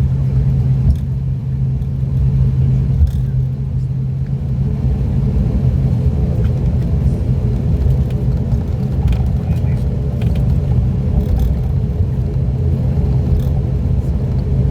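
Cabin sound of an ATR 42-600's Pratt & Whitney PW127 turboprops running steadily while the aircraft taxis: a loud, even low propeller hum with a rumble underneath.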